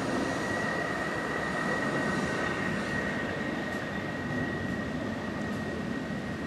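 Electric multiple-unit passenger train running along the track: a continuous rail rumble with a steady high-pitched whine, slowly getting quieter.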